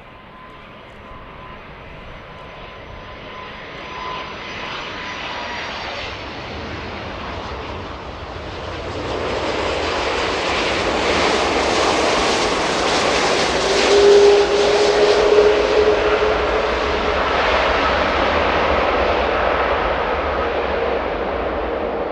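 Airbus A330-300 airliner's jet engines growing steadily louder as it approaches and passes, loudest past the middle and then holding. A thin whine fades out early on the approach, and a louder tone stands out briefly about two-thirds of the way through.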